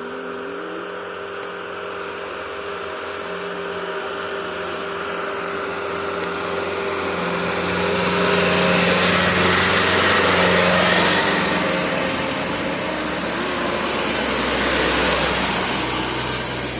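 Heavily loaded truck's diesel engine pulling hard uphill, with a high turbo whistle over the engine. It grows louder to a peak about halfway through, eases off, then swells again near the end.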